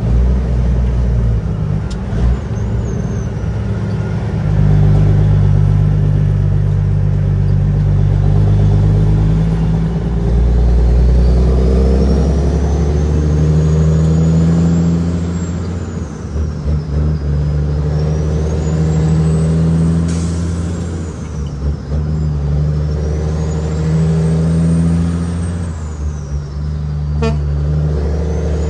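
Caterpillar 6NZ straight-six diesel in a heavily loaded Kenworth W900L truck, running under load. Its note steps to a new pitch every few seconds. From about a third of the way in, a high whine rises and falls again and again.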